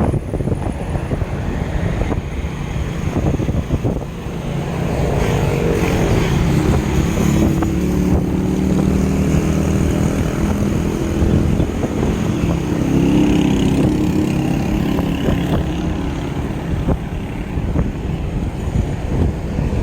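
Wind buffeting the microphone while riding, with a motor engine droning from about five seconds in until about sixteen seconds, its pitch shifting up and down.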